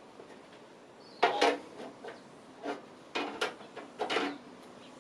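Irregular clicks, knocks and scraping from a tool working on the motherboard standoffs in a metal PC case, several in quick succession from about a second in.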